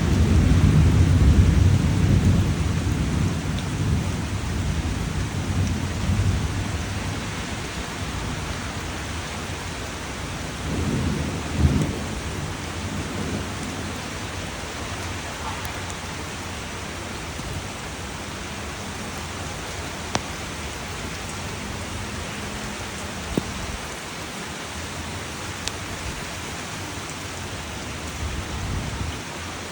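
Steady rain with rolling thunder: a low rumble that fades away over the first several seconds and a shorter rumble about eleven seconds in, then steady rain hiss with a few faint drip ticks.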